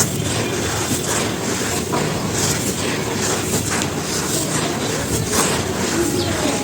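Dry charcoal ash being crumbled and crushed: a dense, continuous crunching crackle made of many small sharp snaps.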